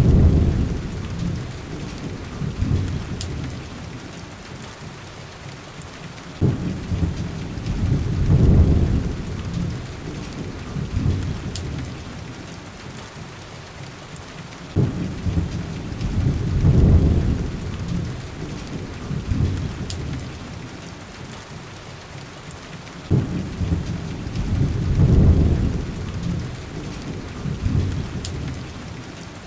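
Heavy rain pattering on a window, with low rolling thunder about every eight seconds: each roll starts suddenly, swells over a couple of seconds and fades. A few faint sharp ticks sound over the rain.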